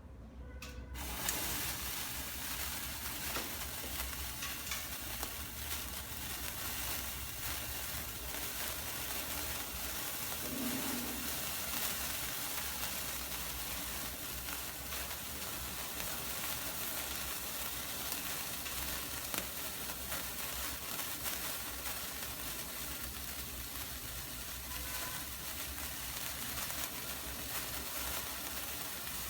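An Acme ground fountain firework spraying sparks: a steady hiss full of fine crackling that starts suddenly about a second in and carries on unbroken.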